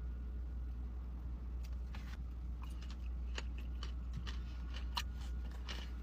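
Close-miked eating sounds: a person chewing food, with scattered small wet clicks and crunches that come more often in the second half, over a steady low hum.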